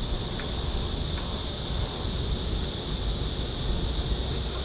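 A steady, high-pitched chorus of insects droning without a break, with a low rumble of wind on the microphone underneath.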